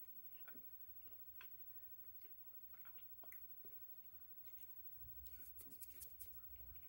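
Faint chewing with the mouth closed: soft, scattered wet mouth clicks, coming closer together from about five seconds in.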